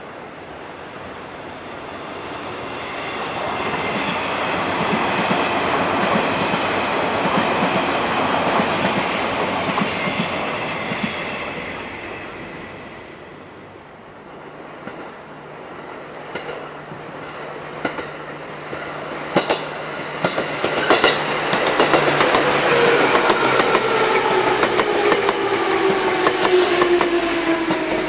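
Two electric trains passing on jointed track: the rumble of the first swells and fades over the first half. After a cut, a commuter electric train comes in with sharp clickety-clack over rail joints and a motor whine that falls steadily in pitch as it slows.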